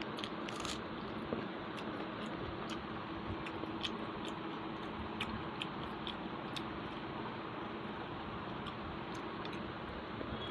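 Close-miked chewing and wet mouth sounds of a person eating rice and fish curry by hand, with scattered small clicks over a steady background hiss.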